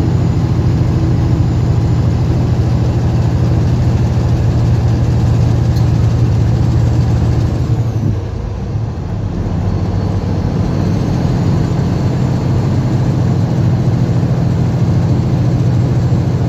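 Semi truck's diesel engine droning steadily under the cab while driving, easing off briefly about eight seconds in and then pulling again.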